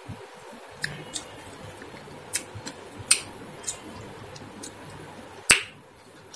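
Mouth sounds of a person eating rice and chicken curry by hand: scattered small wet clicks and lip smacks while chewing, with one sharper, louder smack about five and a half seconds in.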